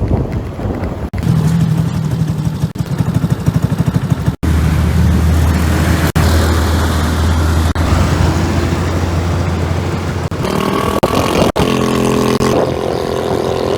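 Suzuki Skydrive 125 scooter engine running under way, its steady pitch changing between short edited clips that cut off abruptly several times.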